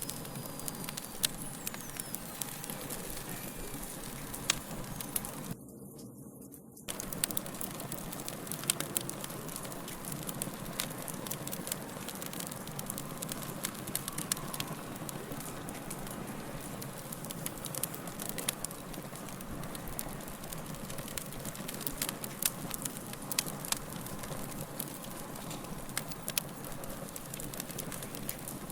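Fire crackling steadily: many sharp pops and snaps over a continuous hiss of flames. About six seconds in, the crackling cuts out for about a second, leaving only a low rumble.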